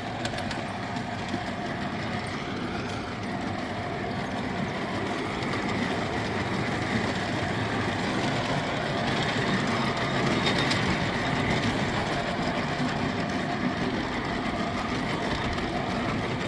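Ride-on miniature Class 08 shunter locomotive running steadily along the track, a continuous running sound with a faint steady hum and light wheel-on-rail clicks.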